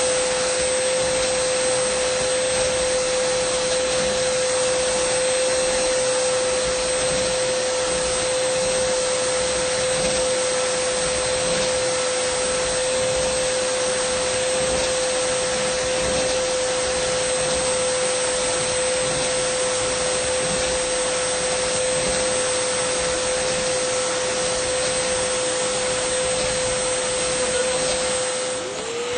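Dyson vacuum cleaner running continuously: a steady rush of air with a constant high whine. Just before the end the motor's pitch and loudness dip briefly, then glide back up.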